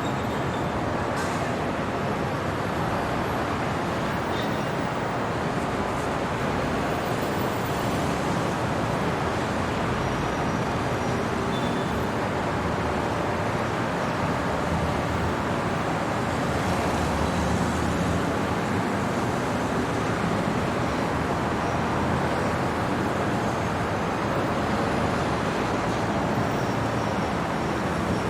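Steady city traffic noise at night: a continuous wash of road traffic with no single vehicle standing out.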